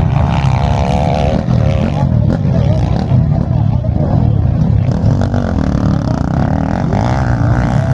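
Off-road motorcycle engine running while riding, loud and steady, its pitch rising and falling with the throttle.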